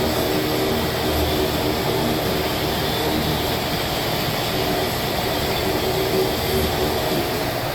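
Automatic car wash machinery running: a loud, steady rush of air over a low hum.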